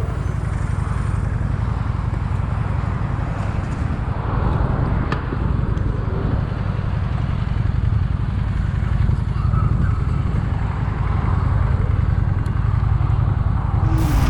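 Steady vehicle engine and road noise from a ride, a continuous low rumble with no sharp events.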